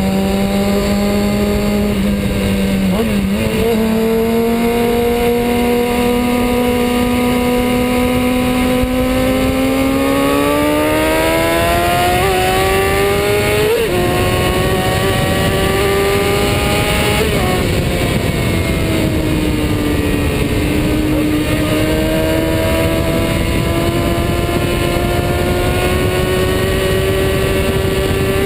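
Kawasaki Ninja ZX-6R 636's inline-four engine under way, heard from a camera on its fairing: the engine note climbs slowly as the bike gathers speed, with short dips at gear changes a few seconds in and about halfway through, then drops back and climbs steadily again. Heavy wind and road rumble run underneath.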